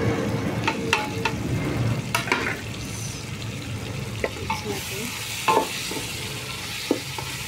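Onions, tomatoes and spices frying and sizzling in oil in a metal pot while a wooden spoon stirs them, scraping and clicking against the pot.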